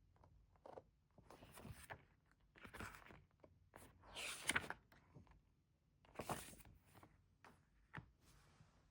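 Faint handling of CD album packaging and paper inserts: a string of short rustles and scrapes with a few light taps, the loudest about four and a half seconds in.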